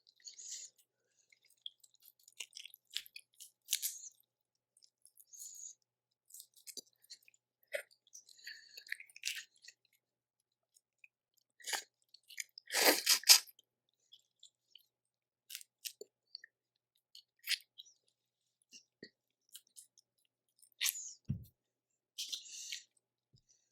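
Close-miked eating of a Cajun seafood boil: scattered small clicks and crackles of crawfish shells being peeled, with chewing and wet mouth sounds. The loudest moment is a longer shell crackle about 13 seconds in, and a soft thump comes near the end.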